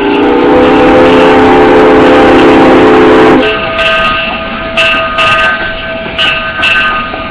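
Steam locomotive whistle blowing one loud, steady blast of several pitches at once, cutting off sharply after about three and a half seconds. The train then rolls on, with a fainter steady ringing and repeated clicks.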